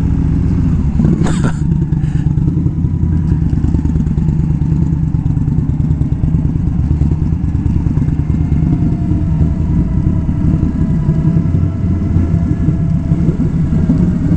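Indian Scout V-twin motorcycle engine running steadily as the bike rides along, with a brief sharp noise about a second in.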